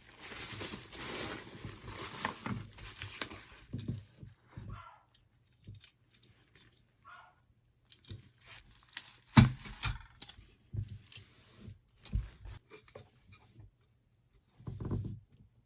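Packaging rustling and tearing during the first few seconds, then the fire pit's metal parts clinking and knocking as they are handled. One louder knock comes about nine seconds in.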